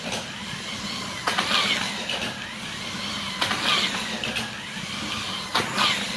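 Scalextric slot cars running round the track with a steady electric motor whine. The sound swells as the cars pass about every two seconds.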